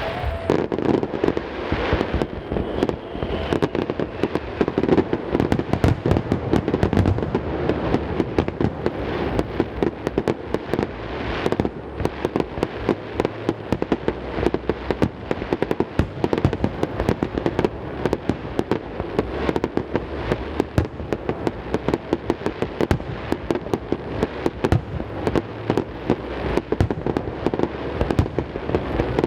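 Fireworks display: a dense, unbroken barrage of bangs and crackles, many a second, with no let-up.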